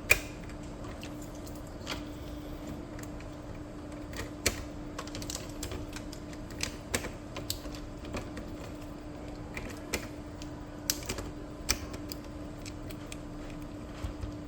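Irregular small clicks and plastic taps as a new printhead is seated and fastened in an Epson L3256 inkjet printer, over a steady low hum.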